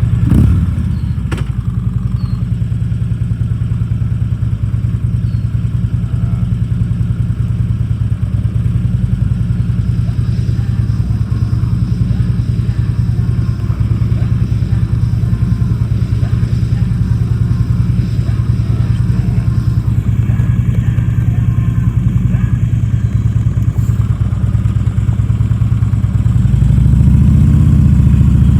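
Harley-Davidson Electra Glide V-twin engine running steadily at idle, with a single sharp clunk about a second in. Near the end the engine speeds up and gets louder.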